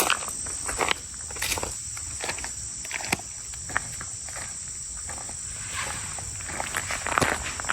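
Footsteps on a trail, irregular steps, over a steady high-pitched drone of crickets or other singing insects.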